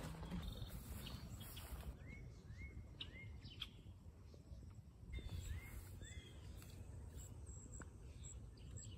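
A small bird chirping in two short runs of three or four arched notes, over faint steady outdoor background noise.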